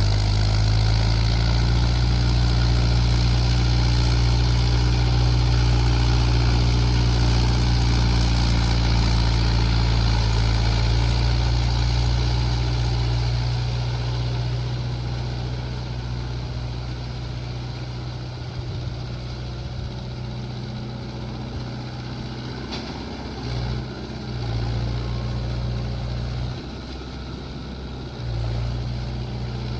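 Mahindra Yuvo 585 DI tractor's diesel engine running steadily, its sound dropping noticeably about halfway through, with a few brief dips near the end.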